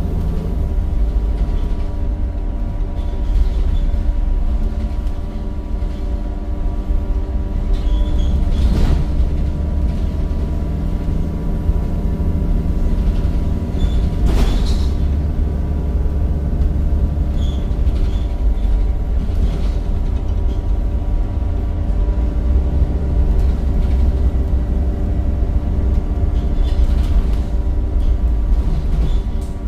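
Cummins diesel engine and ZF gearbox of a Temsa Avenue single-deck bus running under way: a steady low rumble with a steady whine over it, and a couple of brief knocks or rattles, about nine and fourteen seconds in.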